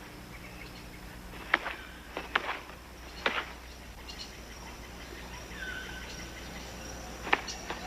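A jacamar knocking a morpho butterfly against its perch to strip off the wings: four sharp taps, three in the first half and one near the end. Under the taps is a faint bed of rainforest insects and bird chirps.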